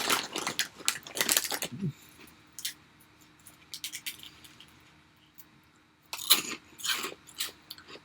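Small plastic food containers handled on a table: clicking, clattering and rustling in two spells, about the first two seconds and again near the end, with faint scattered ticks between.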